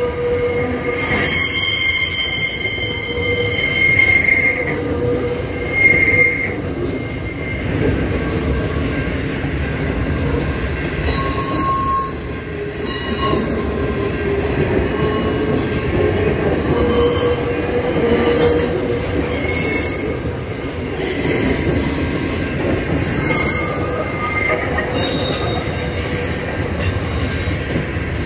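Freight train wagons rolling past over the crossing, a steady rumble of wheels on rail with high-pitched wheel squeal that comes and goes every few seconds.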